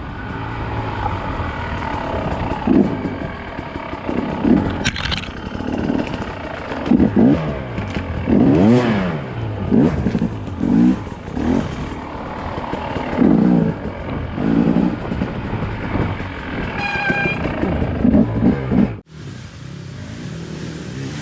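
Dirt bike engine revving up and falling back over and over as the bike is ridden along a trail, with short throttle bursts. The sound breaks off abruptly near the end.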